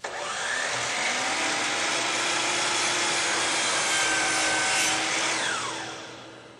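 DeWalt miter saw starting up and running steadily through a 45-degree miter cut in base molding, then released: the motor winds down with a falling whine and fades out near the end.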